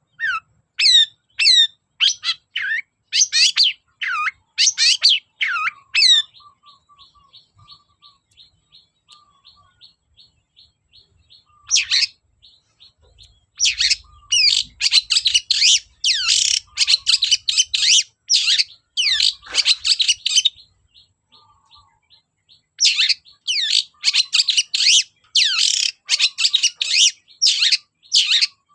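Long-tailed shrike (cendet) singing in loud bursts of quick, sharply sweeping notes. About six seconds in it switches to a softer, fast run of repeated notes for several seconds, then returns to dense loud bursts.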